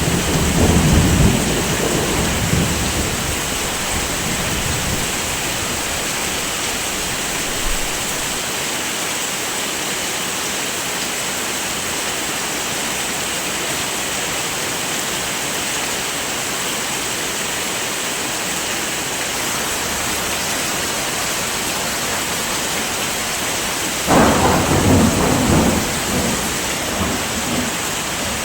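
Steady heavy rain, with two low rolls of thunder: one right at the start lasting a few seconds, and another about 24 seconds in.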